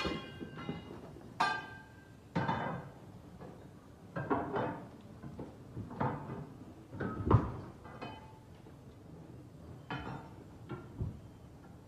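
Hard objects, likely metal parts, clanking and knocking at irregular intervals, about a dozen hits. Several ring briefly, and the loudest knock comes a little past halfway.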